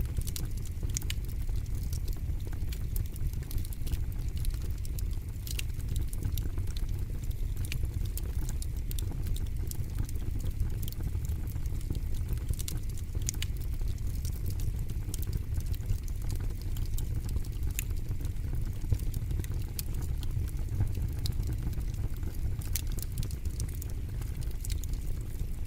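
Fire burning in a fire pit, crackling and popping with frequent sharp snaps over a steady low rumble.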